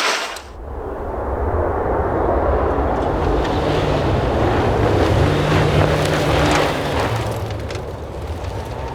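Rally car on a snow stage, its engine running and rising in pitch as it grows louder to a peak about six seconds in, then easing away, with wind on the microphone.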